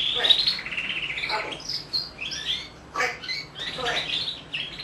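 African grey parrot chirping and whistling: a busy string of varied high chirps, warbles and downward-sliding whistles.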